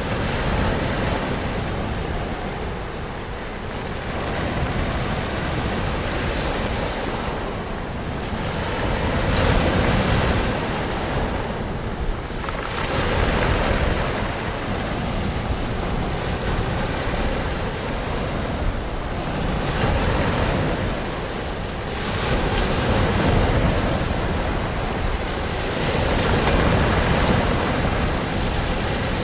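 Ocean waves surging and washing in a continuous dense hiss that swells and eases every few seconds.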